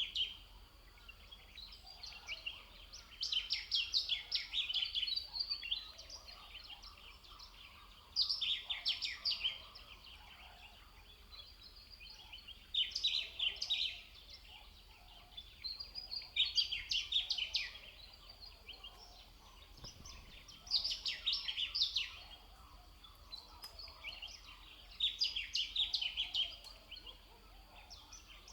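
A songbird singing a short, rapid, trilling phrase over and over, one phrase about every four seconds. Faint steady outdoor ambience fills the gaps between phrases.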